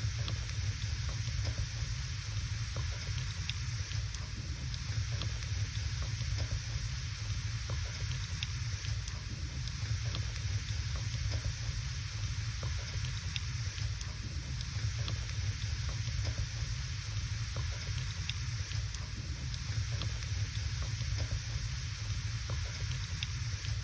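Wood fire burning in a fireplace: scattered sharp crackles and pops over a steady low rumble and hiss.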